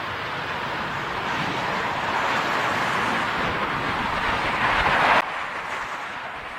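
Jet airliner on landing approach, its engine noise growing louder as it nears, then cutting off suddenly about five seconds in.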